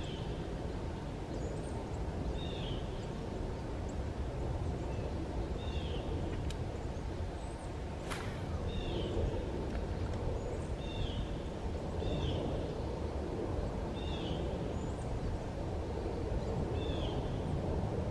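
A bird repeating a short downward-slurred call every two seconds or so, over a steady low rumble. A single sharp click about eight seconds in.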